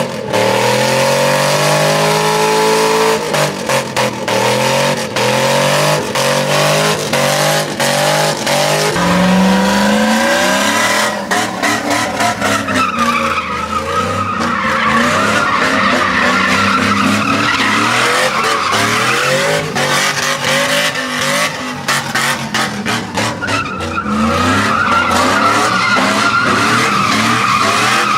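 Truck engine revving hard, its pitch rising and falling, with tyres squealing and skidding in a burnout; the tyre squeal grows stronger about halfway through.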